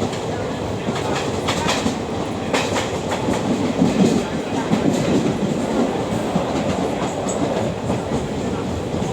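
Passenger train running along the track, a steady rumble with the wheels clacking irregularly over rail joints, the clacks thickest between about one and five seconds in.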